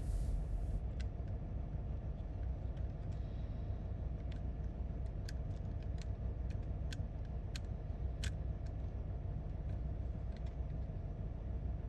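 Scattered light clicks of small plastic toy parts being handled and fitted, about eight in all, over a steady low background hum.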